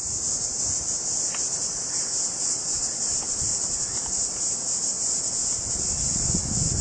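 Insect chorus: a dense, steady, high-pitched buzzing, with a slight pulsing.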